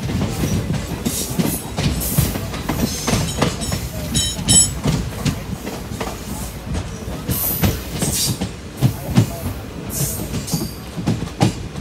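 Passenger train coaches running at speed, heard from an open doorway: wheels rumbling and clattering over the rail joints in irregular knocks, with a few brief high squeaks a few seconds in.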